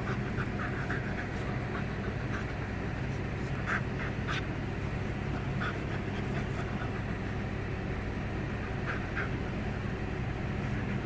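A dog panting, with short high squeaks now and then, over a steady low hum.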